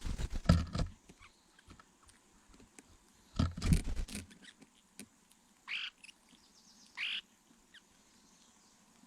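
Two bursts of rustling and knocking about three seconds apart, then two short high bird calls about a second apart.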